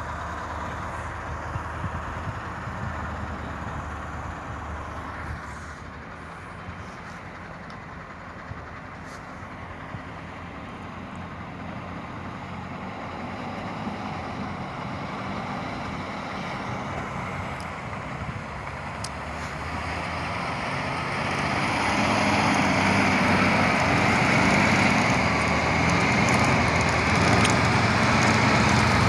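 Heavy timber truck hauling logs, its engine running steadily, growing clearly louder about two-thirds of the way through and staying loud.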